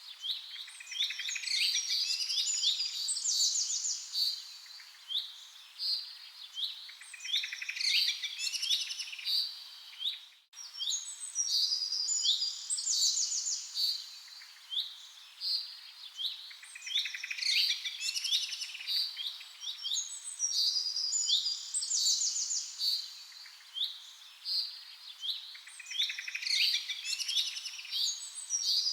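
Several small songbirds chirping and trilling in dense, overlapping short high calls, with a brief break about ten seconds in.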